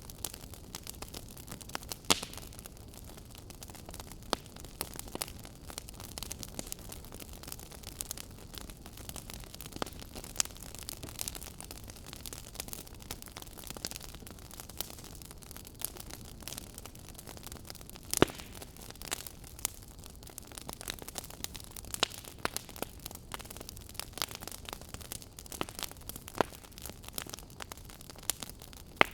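Wood fire crackling and popping: a steady low hiss with irregular sharp pops, a few of them louder, about two seconds in and again after eighteen seconds.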